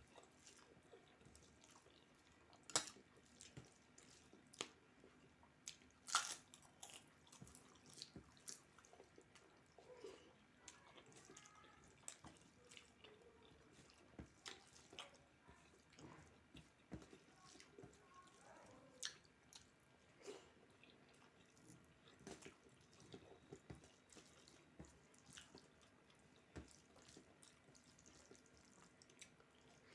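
Quiet eating sounds: a person chewing and making soft wet clicks, irregular and close up, with a couple of sharper cracks about three and six seconds in.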